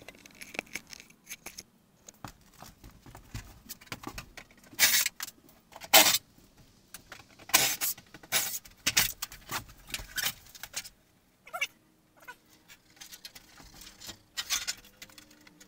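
Hand demolition inside a camper: irregular knocks, clatters and rattles as the kitchen vent, light fixture and upper cabinets are worked loose, with a few louder bangs scattered through and a short lull about two-thirds of the way in.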